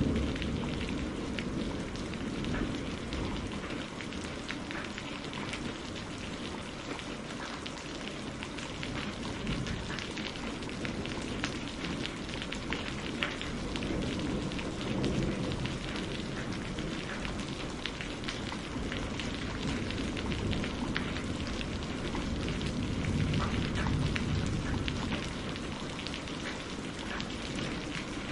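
Steady rain pattering on a greenhouse roof and surfaces, with many distinct drop ticks over an even hiss. A low rumble fades in the first second and swells again a few times.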